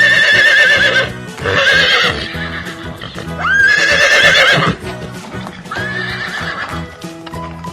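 Horse whinnying four times, each call a quavering, wavering neigh about a second long, over light children's background music.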